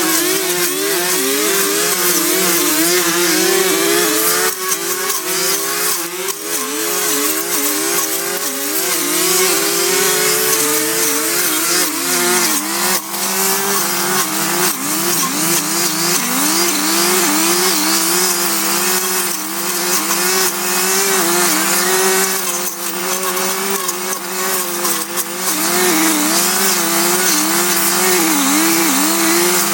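Small two-stroke engine of a handheld power tool running at high revs, its pitch dipping and recovering again and again as it bogs under load while cutting. From about twelve seconds in, a steadier, lower engine tone runs underneath.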